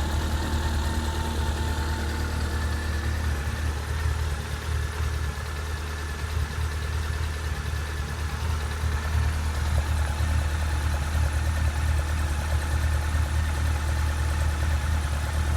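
Honda CB1300S motorcycle's inline-four engine idling steadily.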